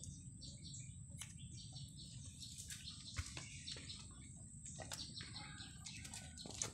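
Faint bird chirps, with scattered short clicks and a steady faint hiss.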